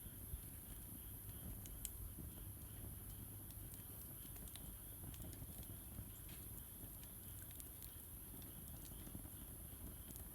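Wood fire crackling in a Solo Stove Campfire, with scattered small snaps over a low rumble of burning. Two sharper pops stand out: one just after the start and one at about two seconds.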